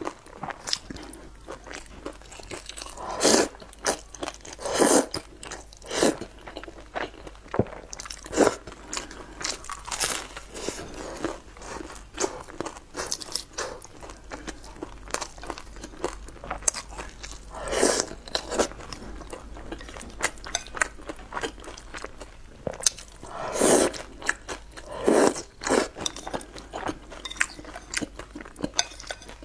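Close-miked eating: a person chewing and biting into food, with crisp crunching from a sesame flatbread crust and moist mouth sounds, and louder bites every few seconds among steady small clicks.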